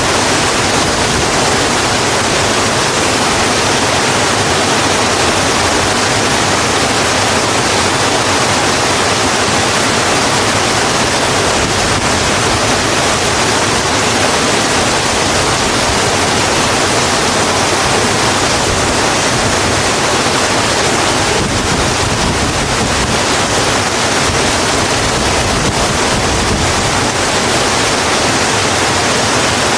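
Steady rain falling on a road, an even hiss with no single drops or other sounds standing out.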